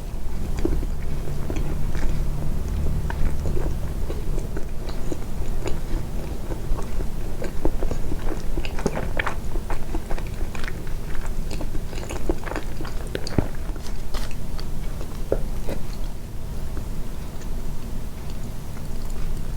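A person biting and chewing soft sweets close to the microphone, with many small wet mouth clicks that come thickest in the middle stretch, over a low rumble.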